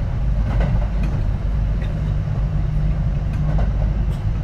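Kintetsu 3220 series electric train running, heard from inside the passenger car: a steady, loud low rumble of the wheels on the rails and the car body.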